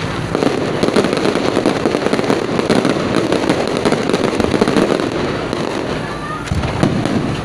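Fireworks crackling: a dense, rapid run of small pops that keeps going for several seconds and thins out about six seconds in.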